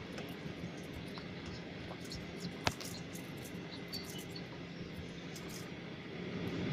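Steady airliner cabin hum with the jet engines at low power, dotted with small ticks and one sharp click a little under three seconds in. Near the end the engine noise starts to rise as the engines spool up for the take-off roll.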